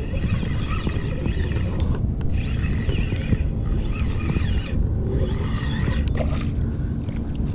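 Wind buffeting the microphone on a kayak, a steady low rumble. Faint high tones rise and fall a few times over it.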